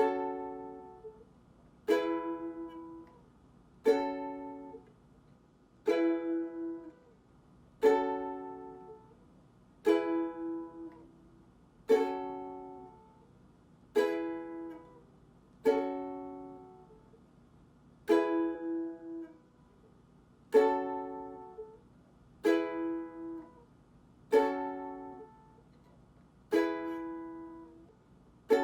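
Ukulele strummed once about every two seconds, each chord left to ring and fade before the next, alternating between G♭ minor (F♯ minor) and E as a slow chord-change drill.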